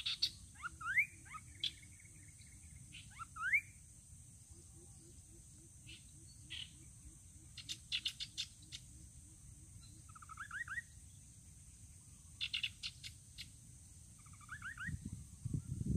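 Rufous-capped babblers calling: scattered bursts of short, quickly rising whistled notes and sharp chirps, with a brief low rumble near the end.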